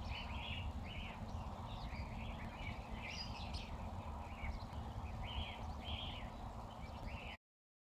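Small birds chirping in quick, repeated short calls over a steady low rumble; the sound cuts off suddenly near the end.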